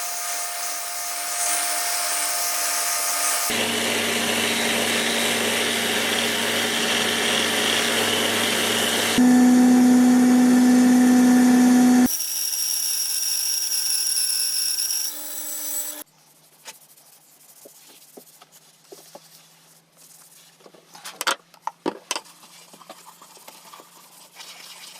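Power tools running in a series of abruptly cut segments, each with its own steady whine, the loudest about 9 to 12 seconds in. About 16 seconds in they give way to quieter hand work with scattered taps and clicks.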